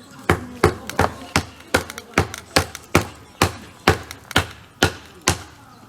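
Wood being chopped into kindling: about thirteen sharp knocks in quick succession, two to three a second, the spacing widening slightly toward the end.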